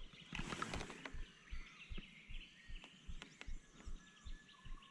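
Birds chirping and calling, over a regular series of low, dull thumps about three times a second.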